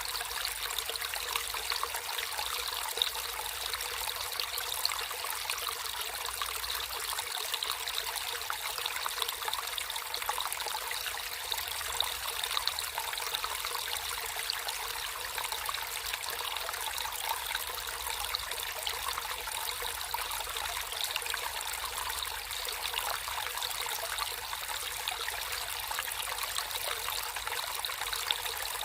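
Natural flowing water trickling and splashing in a steady stream, with many small splashes and no pauses.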